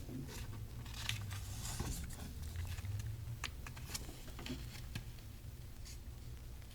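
Quiet room noise on a lo-fi home recording after the music has stopped: a steady low hum with scattered small clicks and short rustles.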